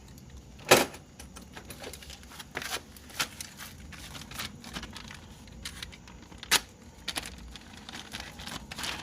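Scattered clicks, knocks and rustling of hands and tools working on an opened water pump, with two sharp knocks, one just under a second in and another about six and a half seconds in.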